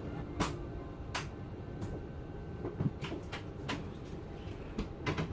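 Airbus A380 cabin at the gate: a steady hum of the cabin air, broken by several short sharp clicks and knocks, the loudest about half a second in and near the end.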